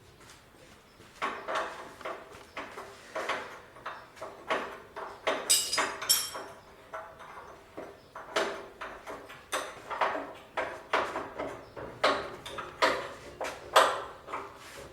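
Irregular metallic clanks and scrapes, about one or two a second, some with a short ring, from hand tools and steel parts being worked on during a tractor repair.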